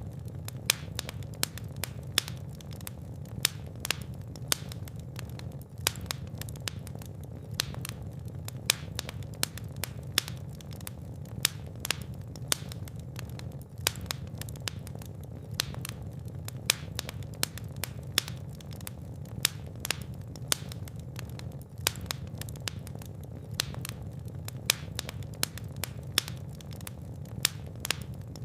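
Fire burning in a fireplace: frequent sharp crackles and pops, irregularly spaced, over a steady low rumble of the flames.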